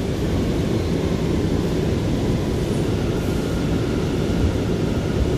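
R179 subway car running on the rails, heard from inside the car: a steady low rumble of wheels and running gear.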